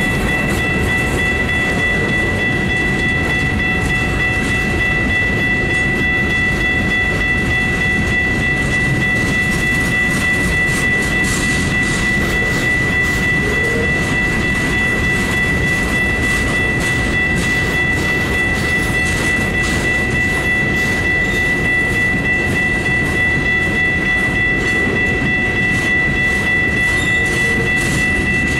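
Union Pacific rock train's freight cars rolling past, steel wheels clicking over the rail joints. A steady high-pitched ringing tone sits above the rumble.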